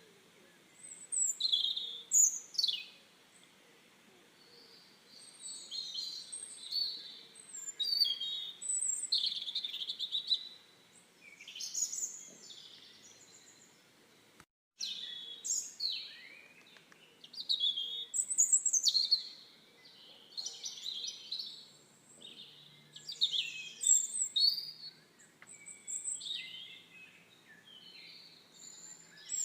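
Several songbirds singing and chirping in short, overlapping phrases of quick high notes. The sound cuts out for a split second about halfway through.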